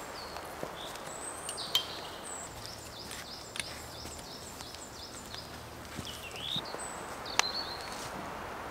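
Small birds chirping in short, high, gliding notes over a steady background hiss of forest ambience, with two sharp clicks, one about two seconds in and a louder one near the end.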